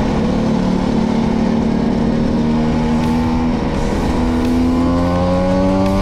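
Vespa V50's single-cylinder two-stroke engine running under way at a steady pitch for about three and a half seconds, then, after a brief dip, revving up with its pitch climbing steadily to the end.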